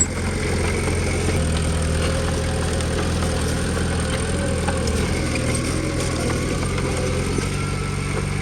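Diesel engine of heavy earthmoving machinery running steadily at a low, even note, which shifts slightly about a second in and again near the end.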